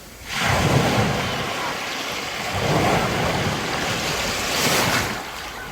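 Strong sea surf: waves breaking and washing in, the rush of water swelling three times.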